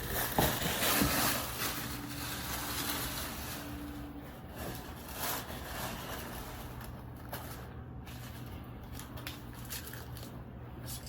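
Rustling and scraping of a luggage trunk and its wrapping being handled and unpacked, with a few small knocks. It is busiest in the first couple of seconds, then softer.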